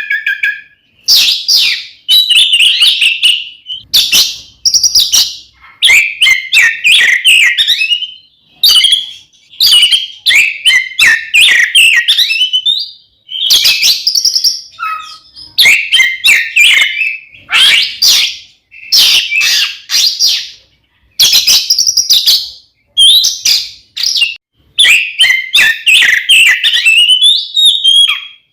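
Oriental magpie-robin (kacer) in loud, combative full song: quick runs of varied, high, whistled and chattering notes in phrases of a second or two, broken by short pauses.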